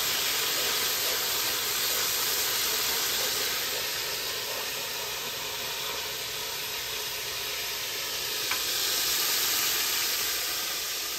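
Blended green seasoning sizzling steadily as it fries in a pan, stirred with a wooden spatula, with a single light click about eight and a half seconds in.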